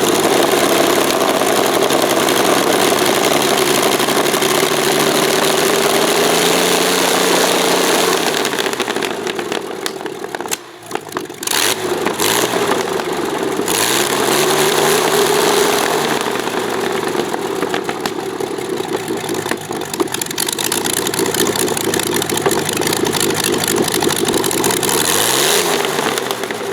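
Avia M 137 six-cylinder air-cooled aircraft engine running, its speed falling and rising: the sound drops away briefly about a third of the way in, then picks up again.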